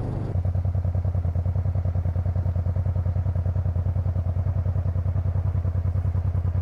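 Honda Transalp 700's V-twin engine running steadily under way, a low drone with a fast, even pulse.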